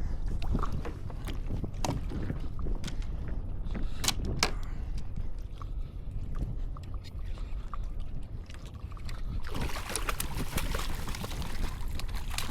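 Water sloshing against a fishing kayak, with scattered clicks and knocks from gear on the hull and a low wind rumble on the microphone. About three-quarters of the way in, a loud splashing hiss of water begins.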